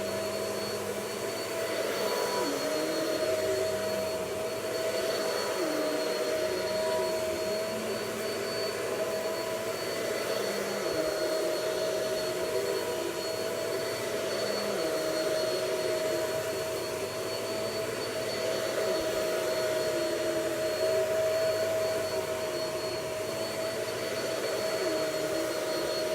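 Vacuum cleaner running steadily with a high motor whine. Its lower tone dips briefly every few seconds as the load on the motor changes.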